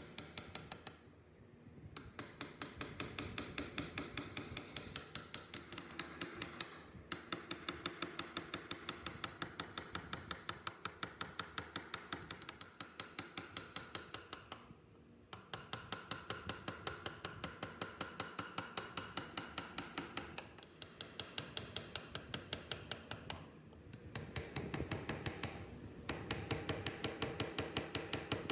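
Mallet tapping a carving chisel into wood in steady runs of about two strikes a second, each with a slight ringing, broken by short pauses.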